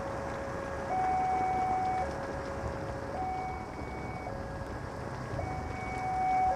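Railway level-crossing warning alarm sounding: an electronic two-tone signal that alternates between a lower and a higher pitch, each held about a second, meaning the barriers are down and a train is approaching. A steady hiss of background noise runs beneath it.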